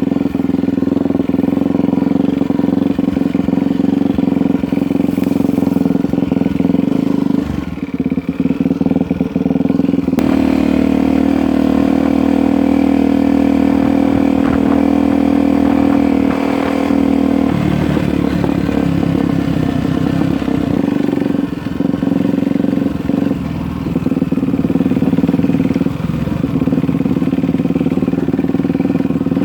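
Off-road motorcycle engine running on a trail ride. It dips briefly about eight seconds in, holds a steady note from about ten seconds in, and changes again around seventeen seconds.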